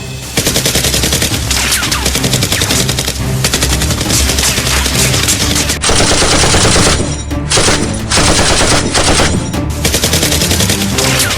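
Rapid bursts of automatic gunfire, shot after shot in quick succession, over background music.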